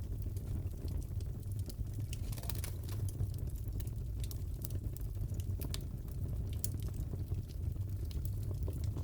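Crackling fireplace: a steady low rumble of burning with many scattered sharp pops and snaps.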